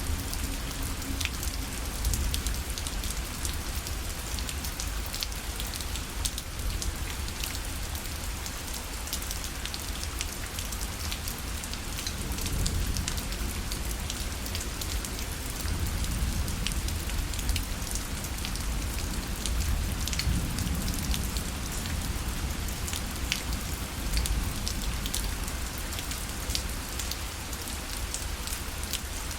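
Rain falling steadily on a parasol: a dense patter of drops on the fabric, with many small irregular ticks over a constant low rumble.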